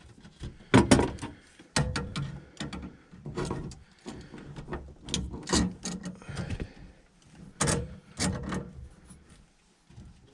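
Tools working a stuck gas-line fitting loose at the furnace's gas valve: irregular knocks, clicks and clanks of handling and turning.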